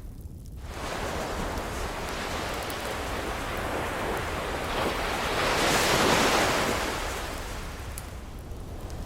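Ocean surf: a wave rushes in, building to a peak about six seconds in, then washes back out. A few faint crackles from a wood fire sit under it.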